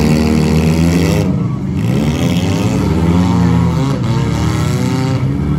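Several demolition-derby compact cars' engines running and revving together, their pitches rising and falling as they accelerate and back off.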